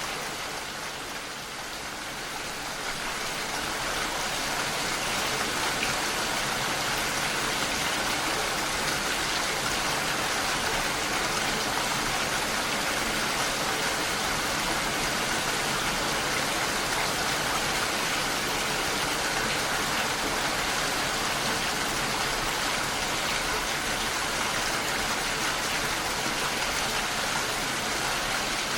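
Steady rain falling, an even hiss of rainfall that is a little softer for the first couple of seconds and then holds level.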